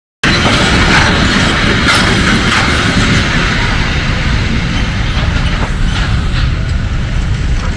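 Loaded coal wagons of a freight train rolling past over a level crossing: a steady rumble of the wagons with a few wheel clacks over the rail joints, easing slightly as the tail of the train goes by. The sound starts abruptly just after the start.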